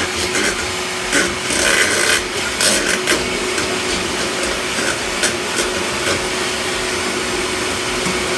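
Small electric motor running steadily, with scraping and knocking clatters over the first few seconds, as a dryer vent is cleaned out.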